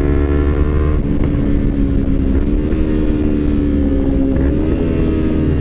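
Yamaha R25 parallel-twin motorcycle engine running at low, fairly steady revs in slow-moving traffic, with a brief rise in revs near the end.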